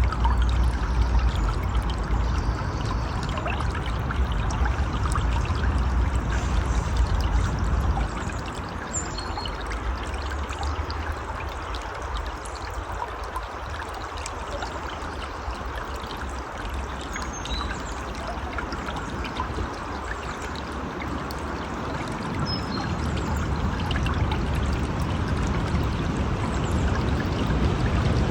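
Flowing river water, a steady pouring and rushing, with a deep rumble underneath that eases off about eight seconds in and builds back up near the end.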